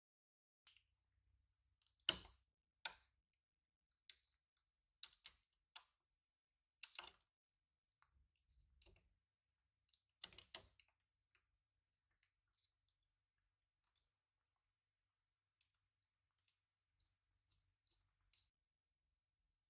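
Scattered light clicks and knocks, as of small hard objects being handled, the sharpest about two seconds in and others near three, seven and ten seconds, thinning to a few faint ticks in the second half.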